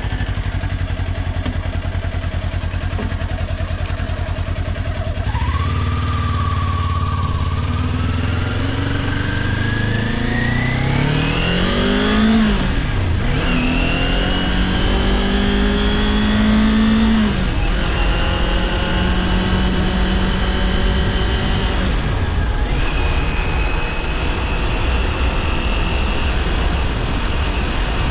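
Kawasaki Ninja 400's parallel-twin engine idling for about five seconds, then pulling away and revving up through the gears. The pitch rises and drops back at each upshift, three in all, before it settles to a steady cruise.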